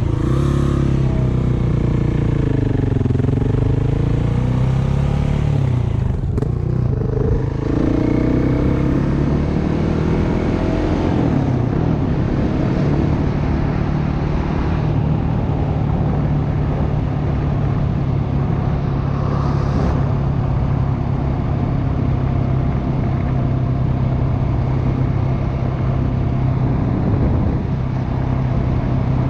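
Dirt bike engine under way, its pitch dipping and rising over the first dozen seconds as the rider changes speed, then holding a steady note at cruising speed.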